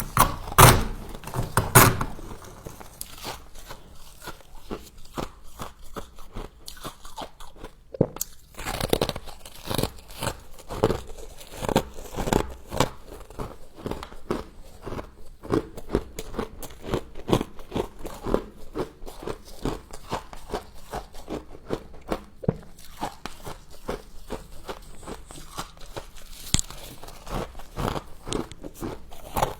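Frost being bitten and chewed close to the microphone: two loud crunching bites near the start, then a steady run of softer crunching chews.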